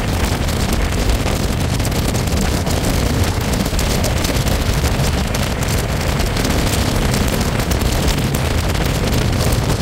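Express passenger train running at speed: a steady, loud rumble with rushing noise.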